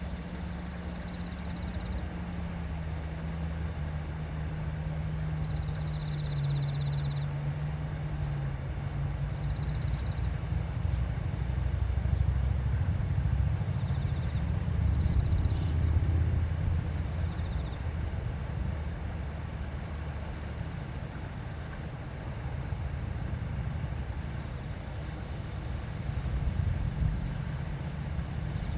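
River water babbling in a steady rush, with a low engine-like hum underneath that drops in pitch early on and swells louder around the middle before easing off. A few short, high peeps come through over the water.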